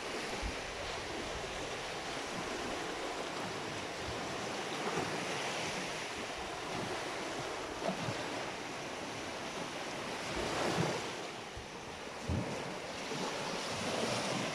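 Sea waves washing against the shore, swelling and easing, with wind buffeting the microphone and a few low thumps.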